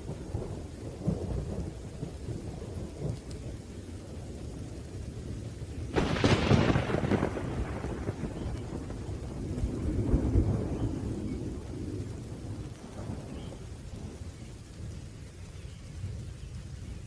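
Thunderstorm with steady rain and low rolling thunder. A sharp thunderclap breaks about six seconds in and rumbles away, and a second roll of thunder swells a few seconds later.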